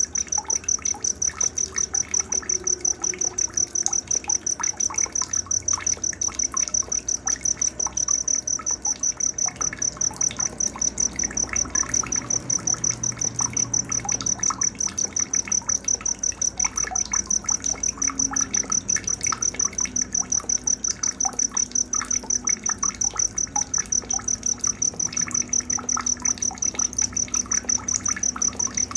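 Night-time insect chorus: a cricket chirping in a steady, even, high-pitched pulse, with many short scattered chirps from other creatures lower down.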